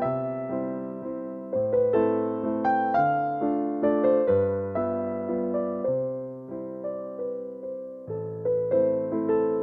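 Background piano music: gentle melodic phrases of struck notes over sustained bass notes, each phrase fading before the next begins.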